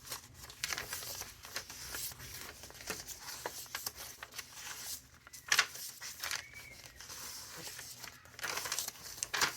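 Paper pages of a thick handmade junk journal being turned and handled, rustling and crinkling, with a couple of sharper page flicks about five and a half seconds in and near the end.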